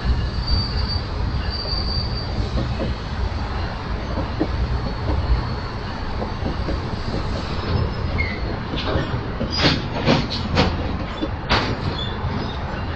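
Train rolling past: a steady low rumble, with a faint high wheel squeal in the first couple of seconds and a cluster of sharp clicks and clacks from about nine to twelve seconds in.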